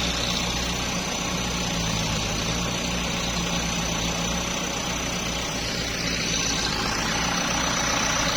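Kubota tractor's diesel engine running steadily, an even engine sound with no change in speed.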